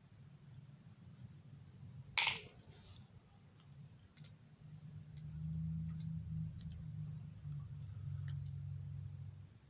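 Small clicks and ticks of hands and tools working on a plastic model railroad passenger-car truck, with one sharp click about two seconds in, under a low hum that swells from about five seconds in until just before the end.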